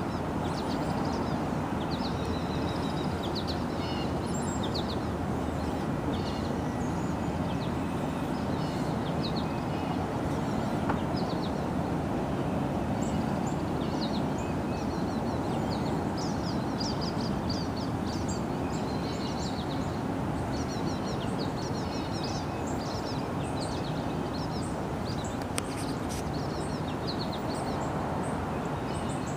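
Songbirds chirping and singing in short, repeated phrases over a steady low rumble.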